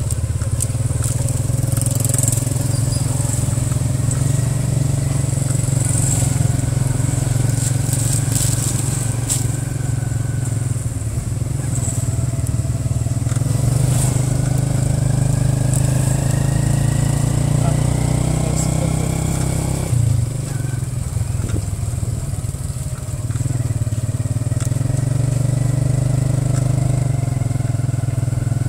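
Motorcycle engine of a Cambodian tuk-tuk running steadily under way, its pitch rising as it speeds up from about halfway and dropping away suddenly about two-thirds through, with scattered rattling clicks.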